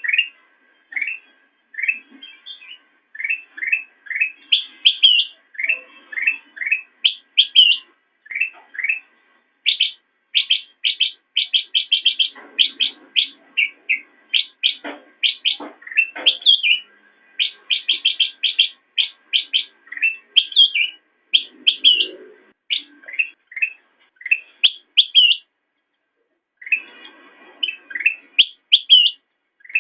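Kutilang emas bulbul singing: a fast, continuous string of short rising chirps, with a pause of about a second near the end.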